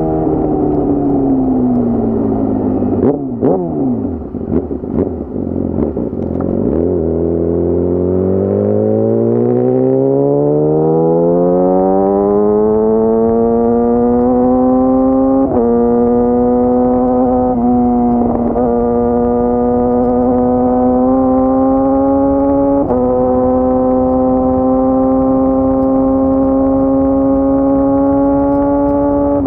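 Yamaha YZF-R6 inline-four engine under riding: revs fall while it is downshifted with a series of sharp blips and pops a few seconds in. It then pulls with pitch rising steadily for about eight seconds, and holds near-steady revs with brief gear changes later on.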